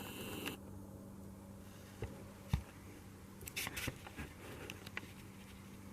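Quiet room tone with a steady low electrical hum, broken by a few small clicks and short rustles about halfway through.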